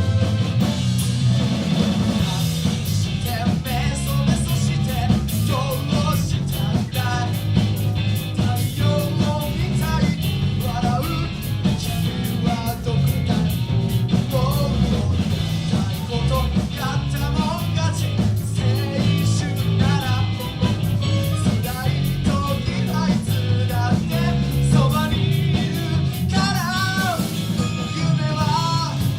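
Live rock band playing: electric guitars, bass, drums and keyboard, with a singer's voice coming in about five seconds in.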